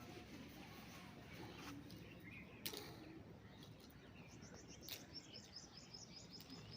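Near silence with faint background hiss, two faint clicks, and a quick run of short, high bird chirps in the second half.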